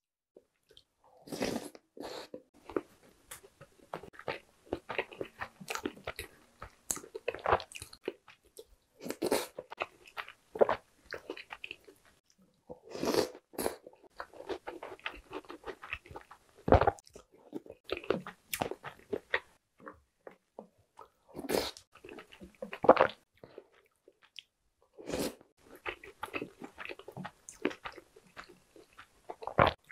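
Close-miked chewing and biting of milk-soaked chocolate snack cakes and cookies: crunching and mouth sounds in spells with short pauses between.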